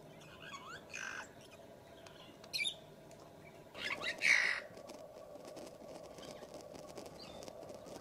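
Birds calling: a few short chirps in the first second and a half, a brief call at about two and a half seconds, then a louder, harsh call about four seconds in.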